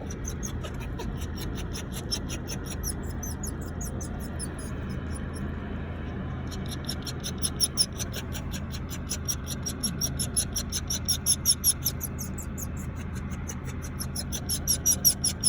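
A dog panting fast and steadily in the car, with a brief pause about six seconds in, over a steady low hum of machinery.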